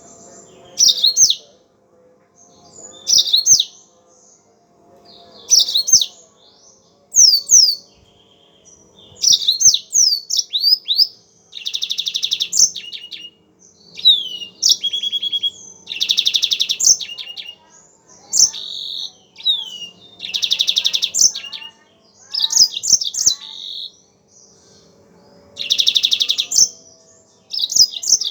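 Yellow-fronted canary (Mozambique canary) singing: short bursts of fast, high rising and falling whistled notes, several of them ending in a buzzy trill about a second long, repeated every two to four seconds over a faint steady hum.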